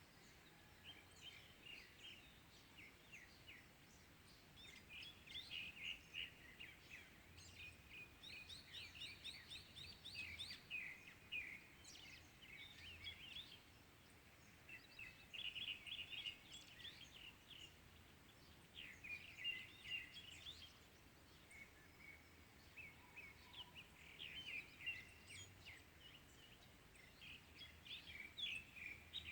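Small wild birds chirping and singing in quick high calls that come in clusters, with a fast, even trill about eight seconds in; faint, over a soft hiss of background noise.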